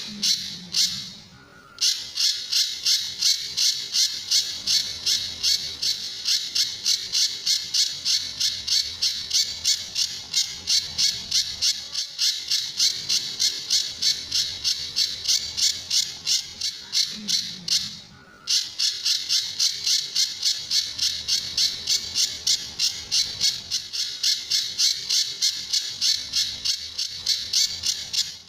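Pijantur (scimitar-babbler) calling in a fast, unbroken string of short, sharp, harsh notes, about three a second, pausing briefly twice. This is the bird's repetitive 'tembakan' call, prized in songbird training recordings.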